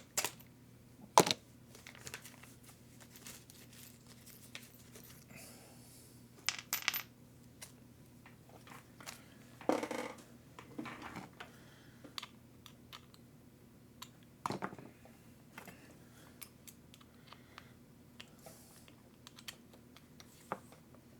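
Small plastic and metal RC-car parts and screws being handled on a desk: scattered light clicks, rattles and crinkling, with a few louder sharp knocks about a second in, about ten seconds in and near fifteen seconds in.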